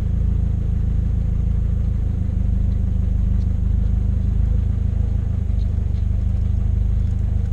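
Jeep Wrangler YJ's engine running steadily at low revs, with no revving, as the Jeep sits poised at the top of a steep off-road descent.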